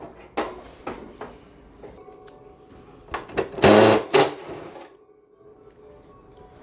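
Cordless electric screwdriver running in a short burst about halfway through while parts of an LG floor-standing air conditioner are taken apart, with scattered clicks and knocks of the parts being handled.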